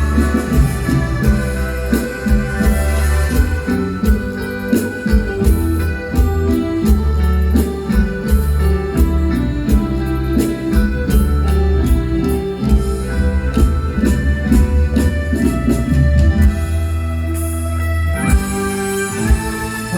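Mor lam band playing an instrumental passage: an electronic organ-style keyboard carries the melody over a heavy bass line and drums keeping a steady beat.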